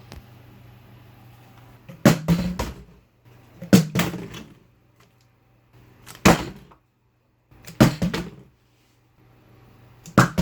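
Five loud knocks or thumps, about two seconds apart, each with a short fading tail.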